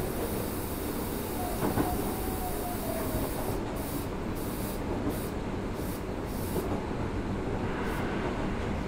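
Osaka Municipal Subway 66 series electric train running at speed, heard from inside the car: a steady rumble of wheels on rail, with a brief thin whine about two seconds in.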